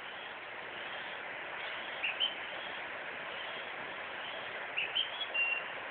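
A bird singing short, high chirping phrases, once about two seconds in and again near the end, over a steady background hiss.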